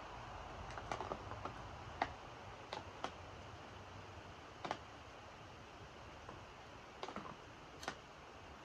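Steady rain hissing, with irregular sharp taps of drips landing on a hard surface close by.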